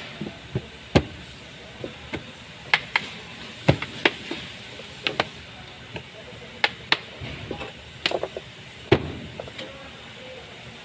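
Irregular sharp clicks and knocks, about fifteen of them, over a steady low background noise: parts and tools being handled during repair work.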